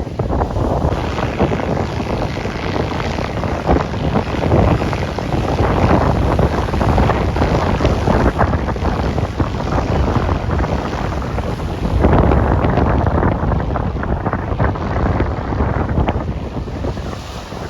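Wind buffeting the microphone: loud, low, gusty noise that swells and eases.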